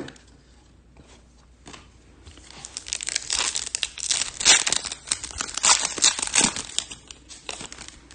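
Foil wrapper of a Topps Chrome trading-card pack crinkling as it is handled and torn open: a run of dense crackles that starts about two seconds in and dies away near the end.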